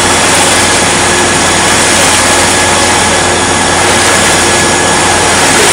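Sailboat's auxiliary engine running steadily while under way, with a constant loud rushing of wind and water over it and a low steady hum beneath.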